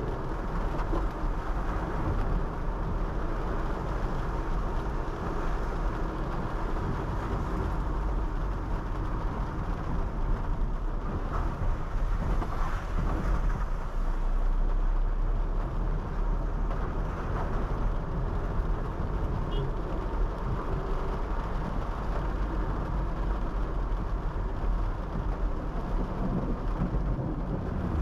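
Honda City 5th Gen sedan driving on a wet road: a steady low rumble of engine and tyres, with the hiss of rain and road spray over it.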